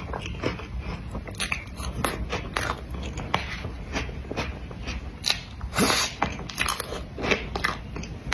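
Close-miked eating of cream cake: chewing and wet mouth clicks, with a louder, longer smack a little before 6 s.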